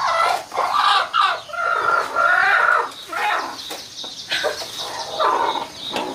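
Chickens clucking, a series of short pitched calls one after another.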